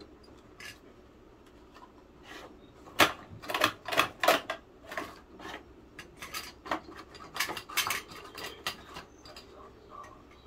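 Hard plastic clicking and clattering of a toy garbage truck and its bins being handled: a quick, irregular run of knocks starting about three seconds in and thinning out near the end.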